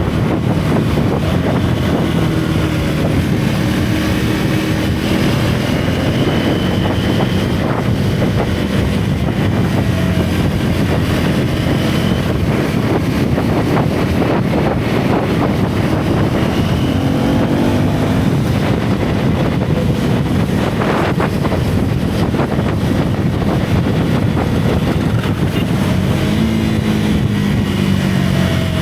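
Single-cylinder KTM 390 Duke class motorcycle engine under way, with heavy wind rush on the camera mic. The revs rise and fall, with clear climbs about two-thirds of the way in and near the end.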